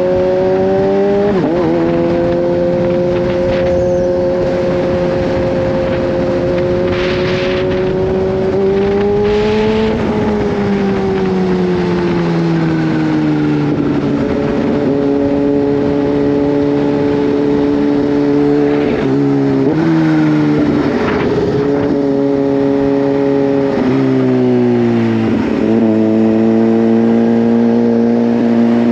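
Kawasaki Z H2's supercharged inline-four running under light throttle while riding. Its pitch climbs gently, eases off, and steps up and down several times in brief dips, as with gear changes, settling lower near the end.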